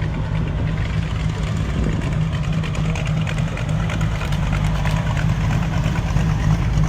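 A car engine idling close by, running steadily at low pitch.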